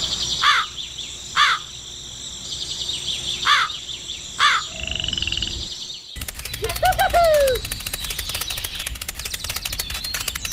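Outdoor nature ambience of birds calling: short, quick falling chirps repeat several times over a steady high hum. About six seconds in the sound changes abruptly to a dense, rapid ticking, with a lower falling call soon after.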